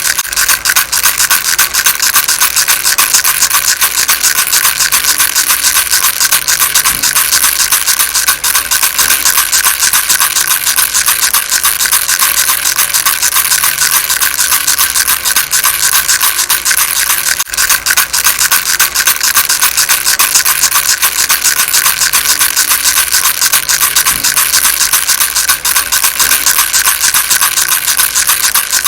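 Baby rattle shaken continuously: a dense, fast rattle that breaks off for an instant about seventeen seconds in.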